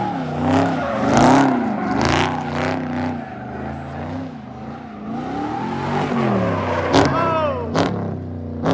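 Car engines revving hard again and again, each rev climbing and falling back in pitch, with two sharp cracks about seven and eight seconds in.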